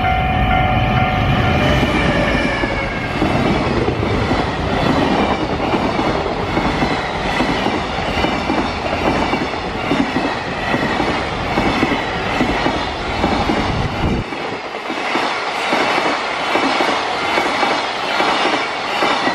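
EF510 electric locomotive passing with a steady whine that falls in pitch and fades about two seconds in. A long train of container wagons then rolls by with a rumble and a regular clickety-clack of wheels over the rail joints.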